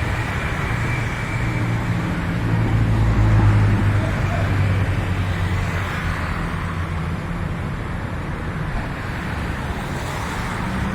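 A motor vehicle engine running close by over steady road traffic noise, swelling about three to four seconds in and easing off after that.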